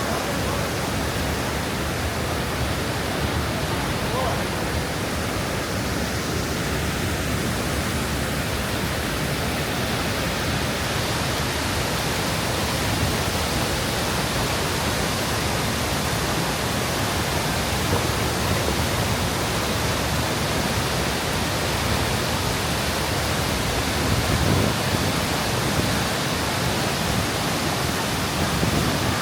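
Steady roar of a large waterfall, an even rushing noise with no let-up.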